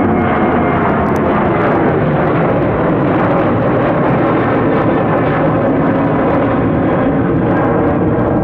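Boeing 737-800's twin CFM56 turbofan engines at takeoff thrust as the jet departs, a loud, steady jet noise.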